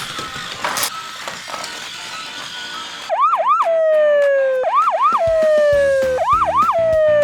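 Electronic siren: two quick rising-and-falling whoops, then a long, slowly falling tone, repeated three times from about three seconds in, louder than the music before it. Background music plays under it.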